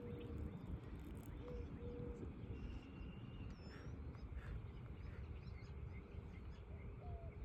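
Quiet outdoor ambience: a steady low rumble, with a few short, faint bird chirps around the middle and near the end.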